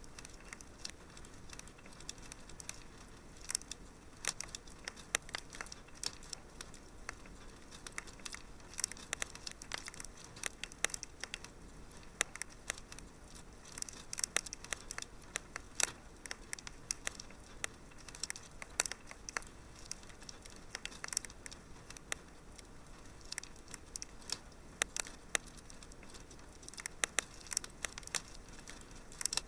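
Wood fire burning in a fireplace: irregular sharp crackles and pops over a steady low hiss.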